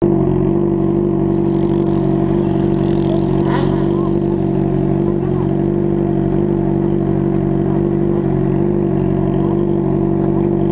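Motorcycle engine running at steady revs, one constant droning note throughout, with a brief sharp hiss about three and a half seconds in.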